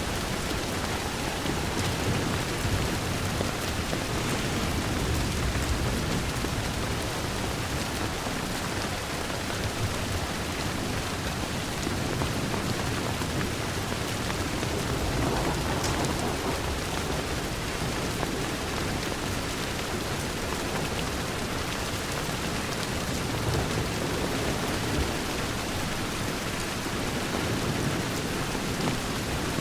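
Steady rain falling against a window, a dense even hiss with a low rumble underneath and no let-up.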